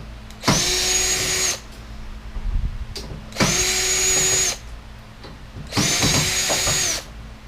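Power drill driving screws, run three times for about a second each. Each run is a whine that spins up to a steady pitch and winds down when the trigger is released.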